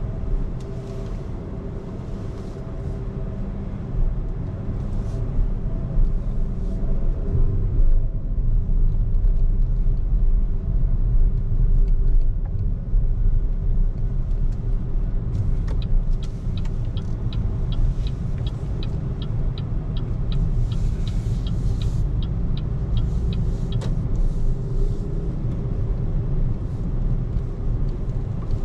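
BYD Seagull electric car driving through city traffic: a steady low rumble of road and tyre noise with a faint hum and no engine sound. Partway through, a fast even ticking or beeping runs for about seven seconds.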